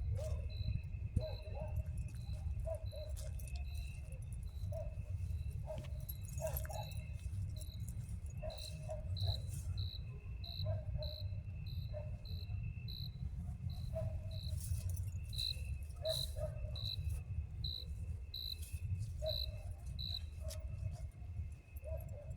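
Night insects: a cricket chirping regularly, about two chirps a second, over a steady high insect drone. There are scattered short, lower calls and a low rumble underneath.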